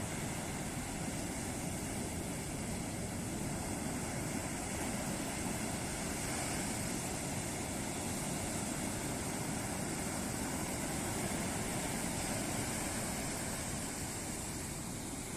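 Ocean surf: waves breaking and washing on a beach in a steady rush, swelling slightly and easing off again.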